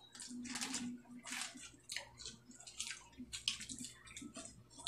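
Close-up wet chewing and lip-smacking of people eating dried fish and rice by hand: short, irregular mouth noises, about two a second.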